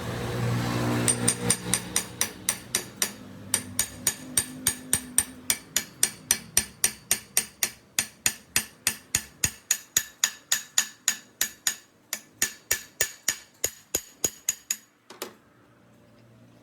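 A hammer striking metal in a steady, rapid series, about three to four blows a second, each with a short ringing note. The blows stop near the end. A low hum fades out under the first few blows.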